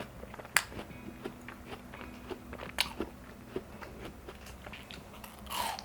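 Close-miked chewing of juicy watermelon: soft wet crunches and mouth clicks, with sharper crisp bites about half a second in and near three seconds.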